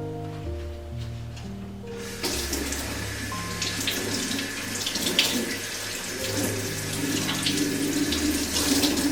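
Kitchen tap running water into the sink, switched on about two seconds in, over soft background music with plucked notes.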